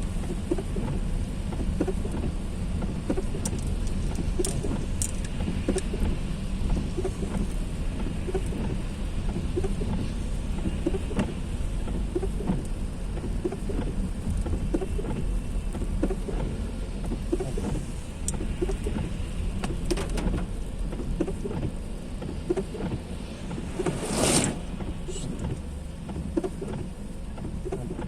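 Heavy rain falling steadily: a constant patter of drops over a low rumble. About 24 seconds in, a short loud whoosh rises above it.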